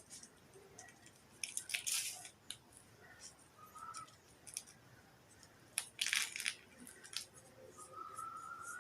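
Handling noises from a hand craft: two brief rustling or scraping noises, one about a second and a half in and one about six seconds in, with scattered light clicks between them. A faint rising tone comes in near the end.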